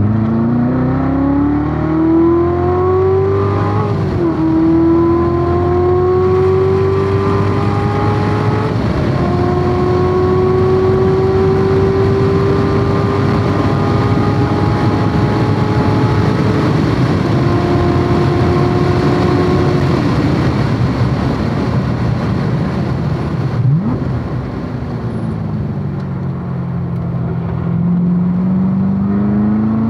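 Corvette C7 Z06's supercharged V8 at full throttle on a race track, climbing in pitch through the gears with quick upshifts about 4 and 9 seconds in, then a long pull. It drops back around the middle, eases off for a few seconds with lower, falling tones as the car slows for a corner, and pulls hard again near the end.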